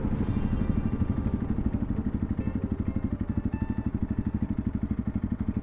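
Honda CRF300 Rally's single-cylinder engine running at a steady, low speed under way, with an even, fast pulse. Wind hiss on the microphone fades about a second in.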